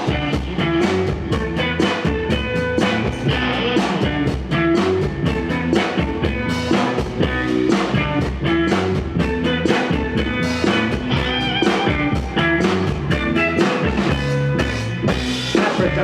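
Live rock band playing an instrumental stretch between sung lines: electric guitar, bass and drum kit keeping a steady beat.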